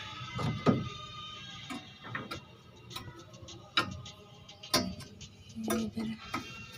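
Irregular sharp clicks and knocks, about seven in all, of hand tools and parts being handled while a washing machine is taken apart for repair.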